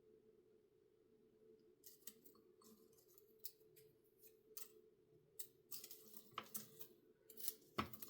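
Faint rustling and light clicks of small die-cut paper pieces being handled and sorted, starting about two seconds in, over a steady low hum.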